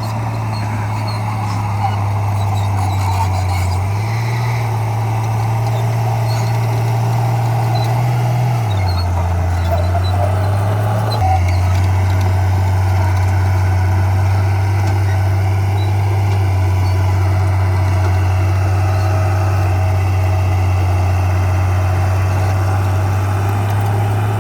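Diesel engine of heavy earthmoving equipment running steadily with a loud low drone. Its pitch steps up and down a few times as the revs change, then holds steady for most of the second half.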